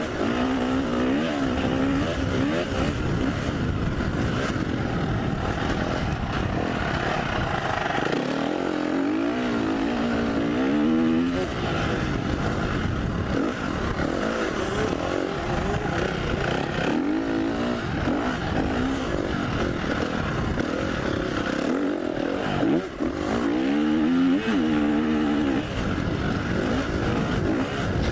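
2015 KTM 350 SX-F's single-cylinder four-stroke engine being ridden hard off-road, its pitch rising and falling again and again as the throttle is worked, over steady rushing noise.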